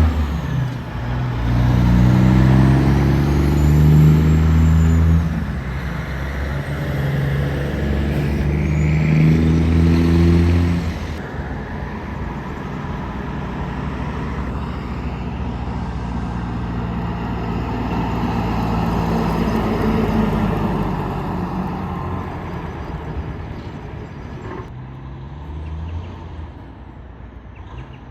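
Trucks passing close by on the road, their engines loud in two passes over the first ten seconds or so, then giving way to quieter passing traffic that fades toward the end.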